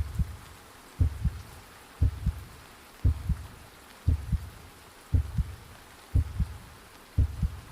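Heartbeat sound effect: slow double thumps, lub-dub, repeating steadily about once a second.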